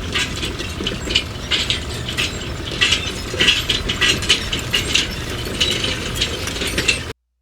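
A small mechanism rattling and clicking in rapid, irregular bursts over a steady low hum, cut off suddenly near the end.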